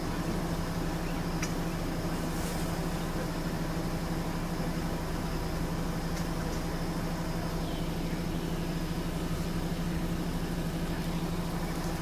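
A vehicle engine idling steadily, with a constant low hum and a few faint clicks.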